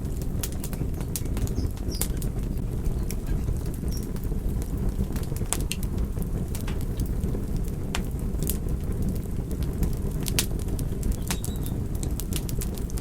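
Wood fire crackling: a steady low rumble with frequent, irregular sharp pops and snaps.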